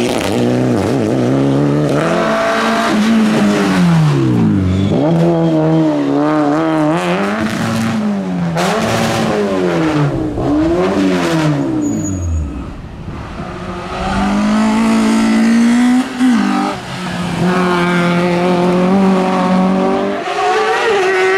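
Rally car engine revving hard up a hillclimb, its pitch climbing and dropping every second or two as the driver shifts gear and lifts for corners. The sound fades briefly about two-thirds of the way through, then comes back as a long, steady high rev.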